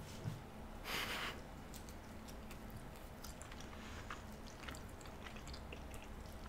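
Close-miked chewing of stuffed pizza crust: soft, scattered mouth clicks with a brief hiss about a second in.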